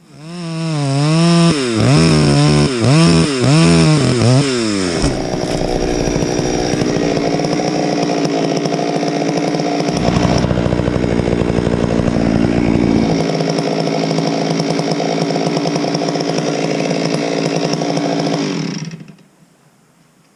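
Chainsaw revved up and down several times, then held at high speed, with a deeper low rumble added for about three seconds midway; it stops abruptly near the end.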